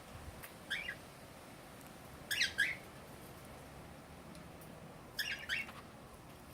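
Cockatiel chirping in three short bursts: a single chirp about a second in, then quick runs of two or three chirps around two and a half seconds and five seconds in.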